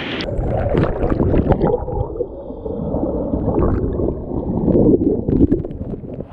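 Rushing stream water gurgling and splashing close to the microphone, heard muffled and dull, with uneven splashes throughout.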